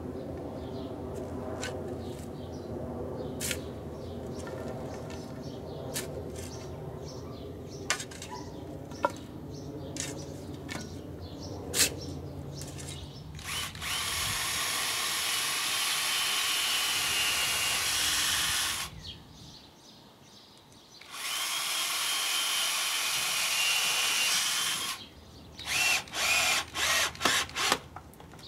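Power drill driving into wood: two long runs of several seconds each, then a quick series of short trigger bursts near the end. Before that, a steady low hum with scattered knocks and clicks.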